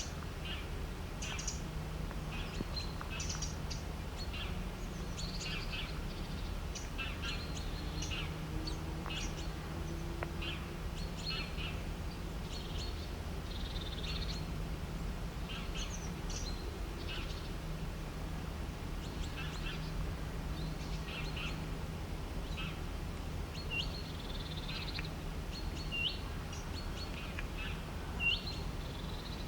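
Birds chirping with many short calls, several at a time, over a steady low hum. Near the end a few calls are sharp hooked notes.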